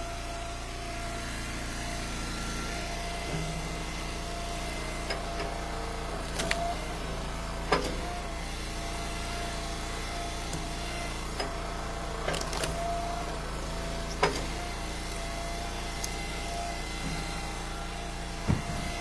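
Wood splitter's engine running steadily while split ash firewood pieces drop into a pickup truck bed, knocking down about five times.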